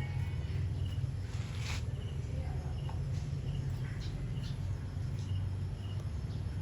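Faint, short high chirps repeating about every half second, like an insect calling, over a steady low hum, with a brief rustle about two seconds in.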